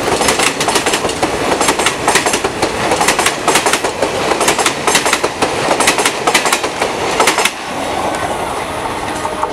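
Passenger coaches of an express train rolling past at speed, their wheels clattering over the rail joints in rapid clicks. The clatter stops about seven and a half seconds in as the last coach goes by, leaving a fading rumble.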